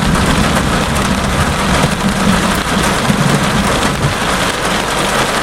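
Rain falling steadily on a car, with a low rumble of thunder that eases off about four seconds in.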